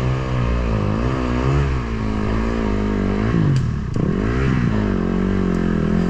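Dirt bike engine running with the throttle worked on and off, its pitch rising and falling, with a quick rev up and drop a little over three seconds in and a couple of faint clicks.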